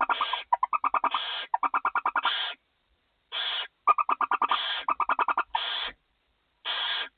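Barn owls calling in the nest box: rapid chittering trains of about a dozen pulses a second alternate with short hissing, snore-like calls about once a second.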